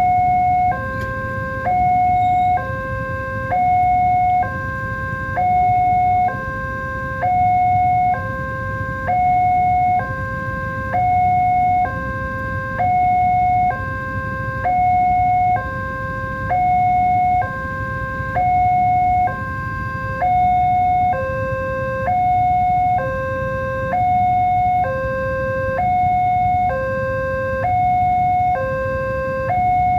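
Railway level-crossing warning alarm sounding its electronic two-tone hi-lo signal, each tone held just under a second and repeating steadily, to warn that a train is approaching. A low rumble runs underneath.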